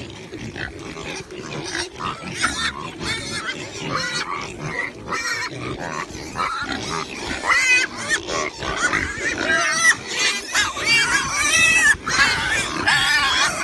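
Pigs grunting and squealing, the squeals growing more frequent and shriller in the second half.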